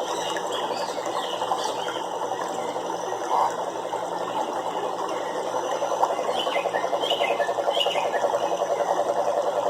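A chorus of frogs calling in fast, continuous pulsing trills that swell louder about halfway through, with short higher chirps near the end.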